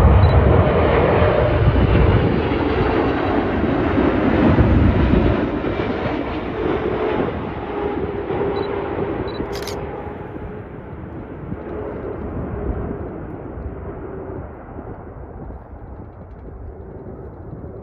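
Jet engines of a Boeing 777-300ER (GE90 turbofans) on arrival: a loud rumble with a faint whine sliding slowly down in pitch, loudest in the first few seconds and then fading steadily as the aircraft moves away.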